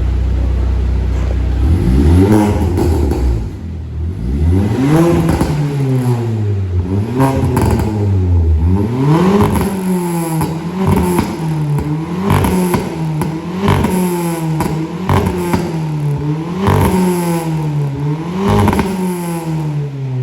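Stage 2 tuned Volkswagen Polo engine revved up and let fall back again and again, about ten times, with sharp cracks as the revs drop.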